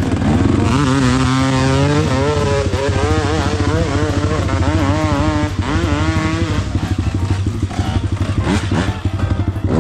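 Dirt bike engine revving, its pitch swinging up and down as the throttle is worked, over another engine running steadily; a quick rising rev comes near the end.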